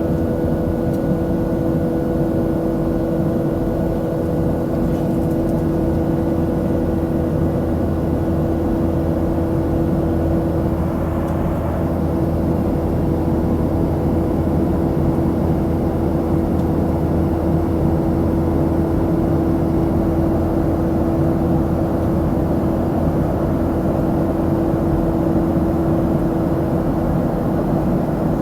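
Steady cabin noise of a Boeing 737-700 in flight: the even rush of the CFM56-7 engines and airflow, with two constant steady hums over it.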